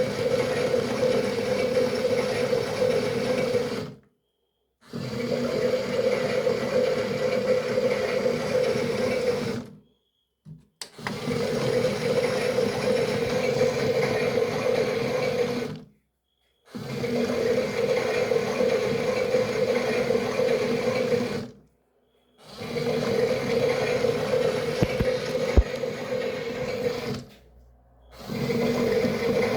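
Toy washing machine's small electric motor running in a wash cycle: a steady hum in stretches of about five seconds, each followed by a brief stop, six times over.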